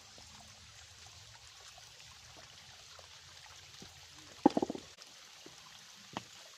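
Faint, steady trickle of a shallow creek. About four and a half seconds in comes a quick, loud rattle of clicks, and a single click follows near the end, as fishing gear is handled.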